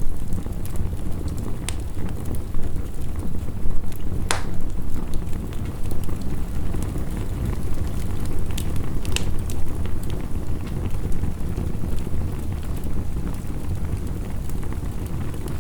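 Wood fire crackling with a few sharp pops, the loudest about four seconds in, over a steady low rumble of heavy rain.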